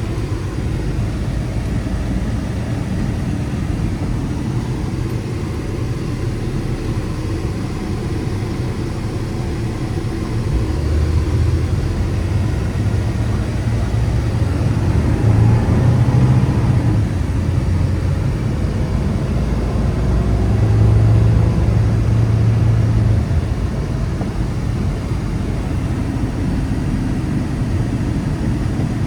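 1995 Chevrolet 1500's 4.3-litre V6 and road noise heard from inside the cab while driving, a steady low drone. The engine note rises and grows louder twice, about ten seconds in and again around twenty seconds in, as the truck pulls under throttle.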